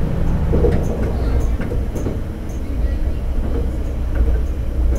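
Diesel railcar running along the line: a steady low engine and running-gear rumble, with a few faint clicks.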